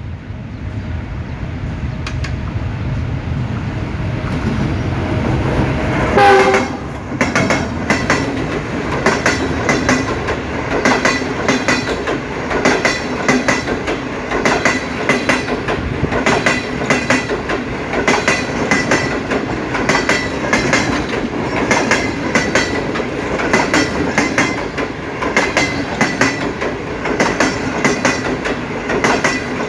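Pakistan Railways Green Line express train going by. A low locomotive rumble builds for about six seconds, then a short horn blast, then a long steady clickety-clack of the coaches' wheels over the rail joints.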